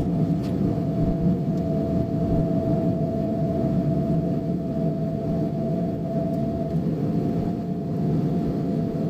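Suzuki Solio Bandit driving at speed, with a steady whistle-like tone over the road and engine rumble. The whistle is a known cold-weather noise that the owner hears only when it is below about −5 °C and the car is above about 40 km/h.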